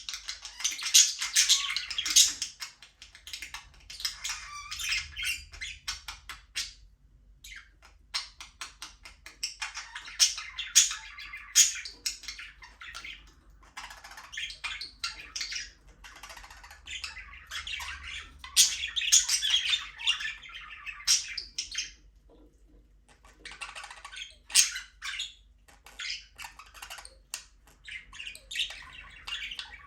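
A flock of budgerigars chattering, chirping and squawking, in busy bursts broken by a couple of short lulls.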